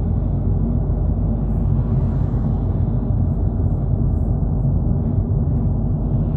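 Steady in-cabin road and engine drone of a 2022 Volkswagen Polo GTI cruising on a highway at about 80 to 90 km/h, mostly low tyre and engine noise that holds an even level.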